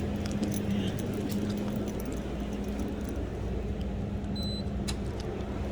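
Steady mechanical hum with a low rumble, scattered light clicks and jingles, and one short high beep about four seconds in.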